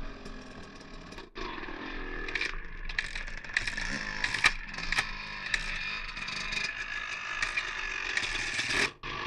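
Dirt bike riding over rough ground, heard as irregular mechanical clattering and knocks over a rushing noise, with no clear engine note on top. The sound cuts out abruptly about a second in and again near the end.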